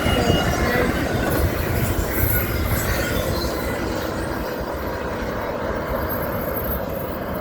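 Long Union Pacific double-stack intermodal freight train passing at speed, its wheels rumbling and clattering over the rails. The sound is steady and grows slightly quieter toward the end.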